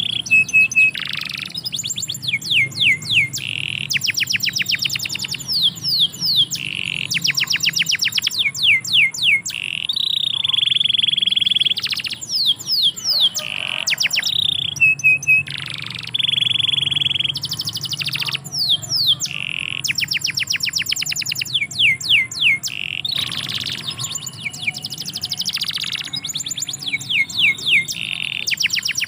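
Domestic canary singing. Fast rolling trills of repeated falling notes alternate with long held whistles, in phrases separated by short pauses.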